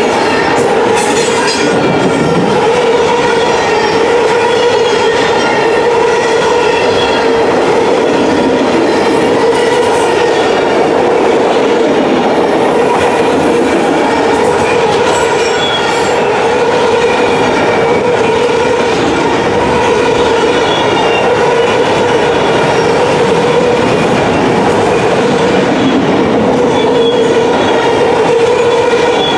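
Autorack freight cars of a CSX train rolling past at close range, making a steady loud rumble of steel wheels on rail. Continuous high-pitched ringing tones run over the rumble.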